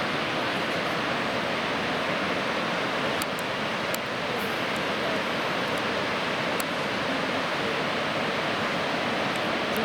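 Rushing water of a waterfall, a steady even noise.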